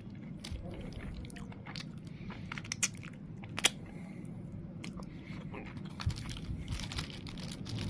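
Close-up chewing of a wrap with crunchy carrots and onions: wet mouth sounds and scattered crisp crunches, with two sharper clicks around three seconds in.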